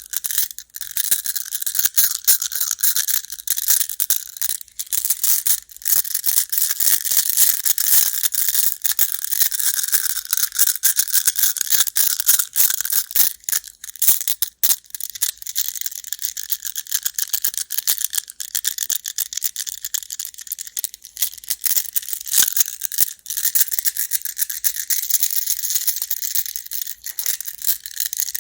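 Go stones clattering together in a dense, continuous run of small sharp clicks.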